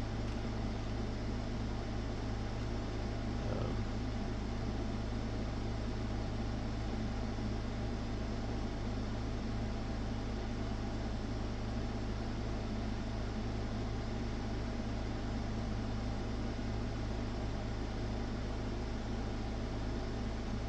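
Steady electrical hum with a fan-like whir, unchanging throughout.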